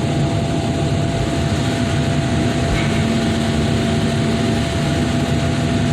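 Heavy diesel machinery engine running steadily, with a constant hum and a faint steady whine over it.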